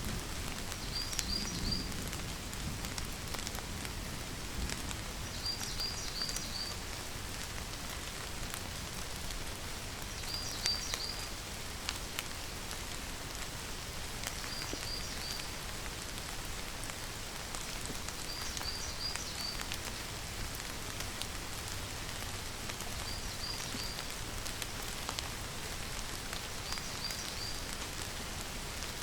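Steady rainfall pattering on surfaces. Over it, a small high chirping call of three or four quick notes repeats about every four seconds.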